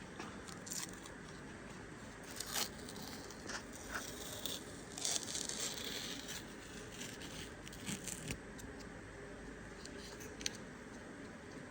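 Blue masking tape being peeled off a metal propeller shaft: scattered short tearing and crinkling bursts, the longest about five seconds in.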